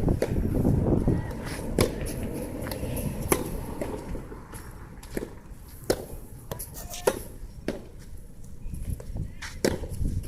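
Soft tennis rubber ball struck back and forth with rackets in a rally, sharp pops of racket hits and ball bounces a second or so apart. Wind rumbles on the microphone, strongest at the start and dying down after a couple of seconds.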